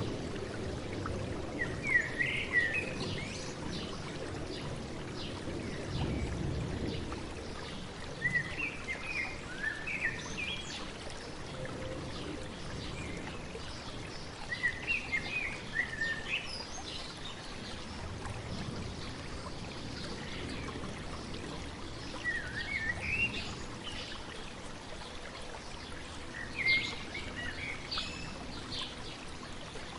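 A stream babbling steadily while a songbird sings short phrases of quick chirps about every six seconds, five phrases in all.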